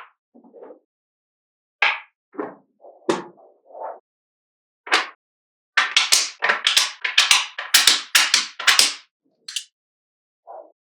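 Small magnetic balls clicking as they snap onto one another. A few separate clicks come first, then a quick run of clicks from about six to nine seconds in, and one or two more near the end.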